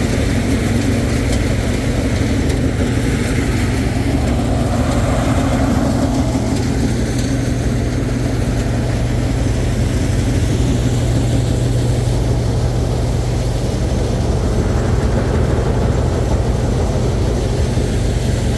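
Combine harvester running steadily: a loud, even engine drone with a constant low hum.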